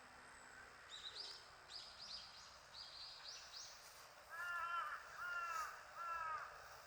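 A crow cawing three times, each caw about half a second long, over a faint steady hiss. Before the caws, a small bird gives a quick run of high chirps.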